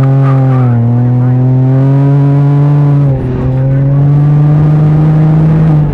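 Can-Am Ryker three-wheeler's engine and exhaust under throttle: the revs climb, then hold a steady, loud drone, with a brief dip about three seconds in and another near the end.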